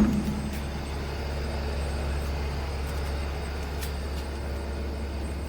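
Diesel engine of a Cat 730C2 articulated truck running steadily with a deep hum. The tail of a loud bang fades out in the first moments.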